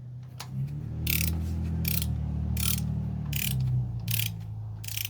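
A click-type torque wrench ratcheting rocker arm bolts down on a V8 cylinder head: about six short bursts of pawl clicking, each stroke coming roughly every three-quarters of a second, over a low steady hum.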